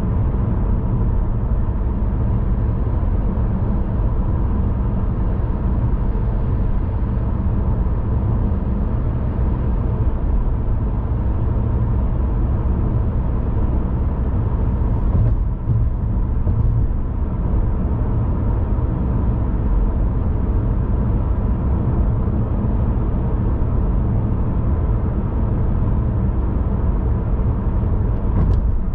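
Steady road and engine noise of a car being driven: a deep, even rumble with a faint steady hum above it. It dips briefly about halfway through and again near the end.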